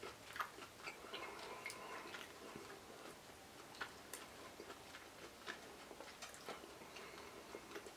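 A man chewing a bite of pan-seared ribeye steak with his mouth closed: faint, irregular mouth clicks and smacks.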